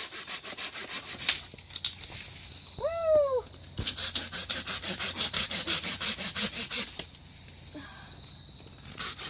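A sharp serrated blade sawing back and forth through a thick weed stalk in quick, even strokes. It pauses briefly around a shout, saws again for about three seconds, goes quiet and starts again at the very end.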